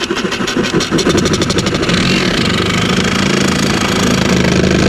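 Handheld electric power tool cutting through material, a loud steady motor with a harsh cutting noise, rapidly pulsing for about the first second and then smoother.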